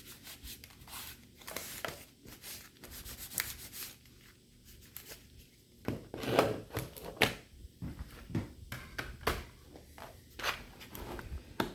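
Hands working on a laptop's plastic case and parts: irregular clicks, taps and scraping, busiest about six to seven seconds in.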